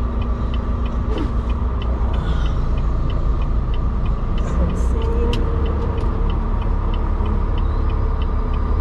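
Semi truck's diesel engine running with a steady low rumble heard inside the cab, with a regular ticking about two or three times a second, typical of the turn signal.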